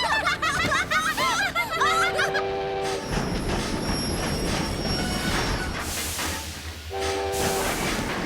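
Train whistle blowing a short chord twice, about two seconds in and again near the end. In between, the train runs along the rails with a rhythmic clatter. Before the first whistle comes a burst of high, warbling sounds.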